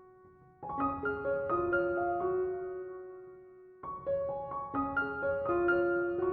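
Soft background piano music: short phrases of gentle notes that ring on, a new phrase starting about half a second in and another about four seconds in.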